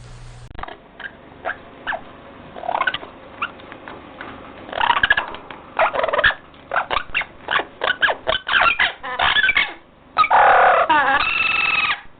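A bird calling: a string of short calls that come faster and faster, then one longer, louder call near the end.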